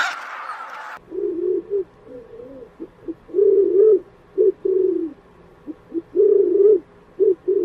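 Pigeons cooing: a run of low, repeated coos in short phrases, starting about a second in after a brief noisy stretch.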